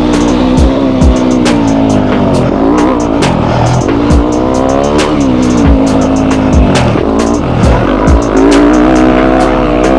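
Yamaha YZ250F's 250cc four-stroke single-cylinder engine revving hard on a motocross track, its pitch repeatedly dropping and climbing with throttle and gear changes. Irregular low thumps and sharp clicks come through from the ride.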